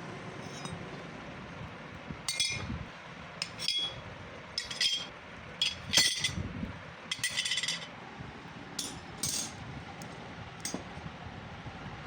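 Irregular metallic clinking: about a dozen light taps and knocks of metal on metal, each with a short bright ring, the loudest about halfway through.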